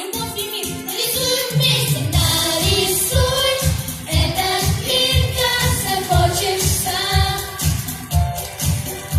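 Children's vocal trio singing a pop song over a backing track with a steady bass beat.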